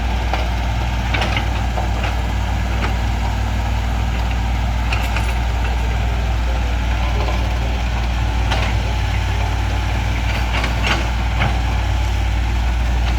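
Heavy diesel vehicle engine running at a steady low rumble, with scattered sharp clicks and knocks over it.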